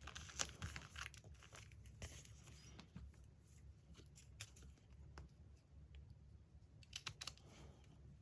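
Magazine paper being handled and torn, faintly, in short rustling bursts near the start, around two seconds in and again near the end, with a few light clicks between.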